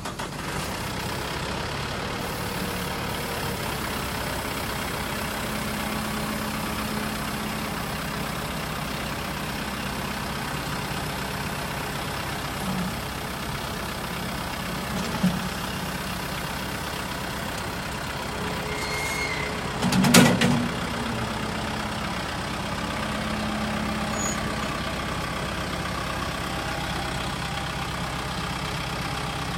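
Kubota M6060 tractor's diesel engine idling steadily, with a brief louder burst about two-thirds of the way through.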